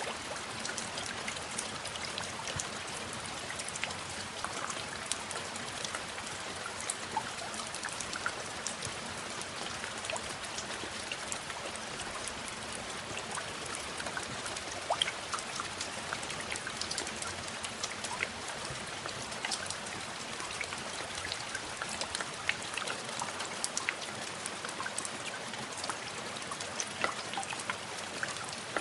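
Steady rain falling, with many scattered drops pattering.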